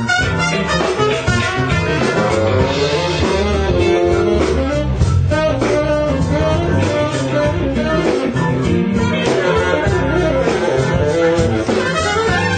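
Blues band playing, guitar prominent over bass and drums.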